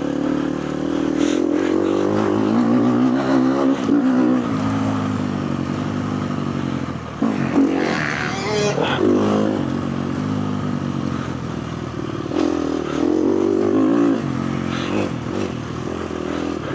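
Four-stroke KTM motocross bike engine revving up and down repeatedly as it is ridden hard round the track, with a short burst of rushing noise about eight seconds in.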